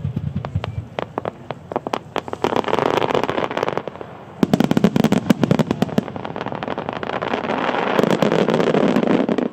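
Starmine fireworks barrage: a quick run of sharp pops and bangs from shells, then dense crackling from glittering stars that comes in waves. The crackling breaks briefly about four seconds in, swells again and stops abruptly at the end.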